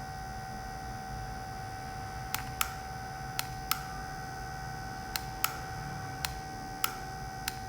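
A steady mechanical hum with a few fixed tones, broken by about ten sharp, irregular clicks, some of them in quick pairs.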